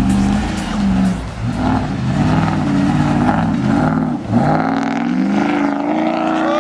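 Pickup truck engine revving hard under throttle, its pitch rising and falling several times, then climbing steadily near the end.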